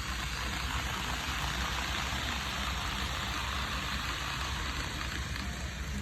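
Steady running noise of a KATO N-gauge 700T shinkansen model rolling along its track, an even hiss over a low hum.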